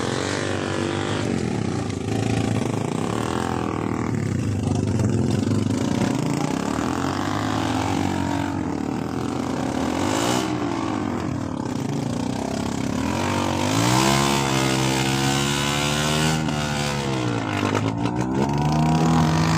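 A vehicle engine revving up and easing off several times, its pitch rising and falling in long swells, with the biggest rev about two-thirds of the way through and another near the end.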